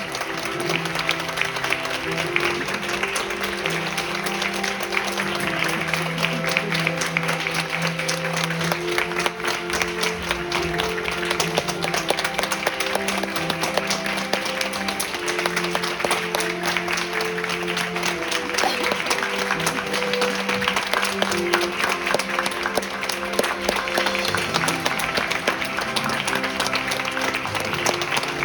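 Theatre audience applauding steadily through a curtain call, over instrumental music played in the house.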